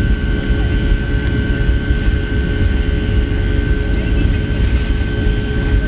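Boeing 757-200 cabin noise in flight: a steady, loud low rumble from the engines and airflow, with a steady high whine over it.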